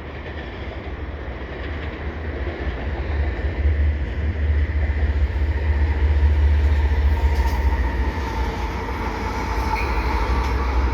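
Approaching freight train led by GE diesel locomotives (an ES44AC and an AC4400CWM): a deep engine rumble that grows louder over the first four seconds, then holds steady, with a faint steady whine above it.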